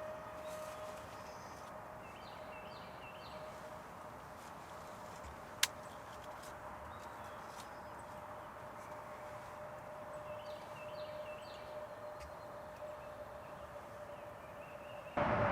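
Faint outdoor ambience with a steady faint hum, short high songbird calls twice, and a single sharp click about five and a half seconds in. A much louder noise starts suddenly at the very end.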